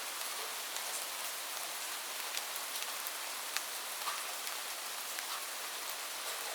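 Steady rain falling as an even hiss, with scattered individual drops ticking sharply on top.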